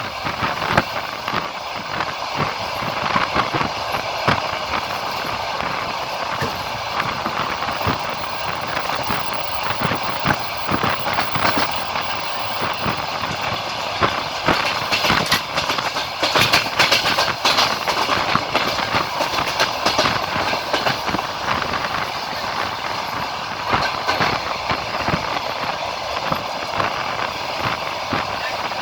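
Passenger train heard from a carriage window while running. The wheels clack over the rail joints above a steady rush and rumble of the moving train, and the clatter is loudest and busiest a little past halfway.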